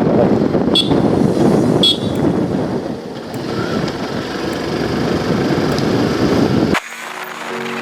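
Wind rush and road noise on the microphone while riding a motorcycle in traffic, with two short horn beeps about one and two seconds in. It cuts off suddenly near the end into background music.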